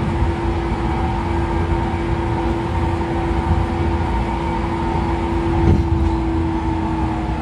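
Running noise heard inside a 113 series electric train's motor car at a steady speed. The bogies rumble on the rails, and a steady whine comes from the MT54 DC traction motors and gearing. A brief knock about six seconds in.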